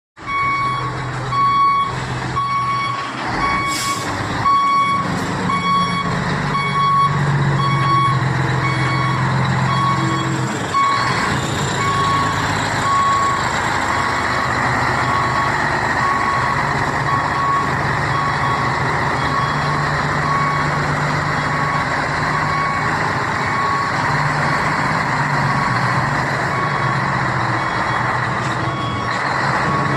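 Scania truck's V8 diesel engine running, with a reversing alarm beeping steadily about twice a second throughout. A short, sharp hiss sounds about four seconds in and again around eleven seconds.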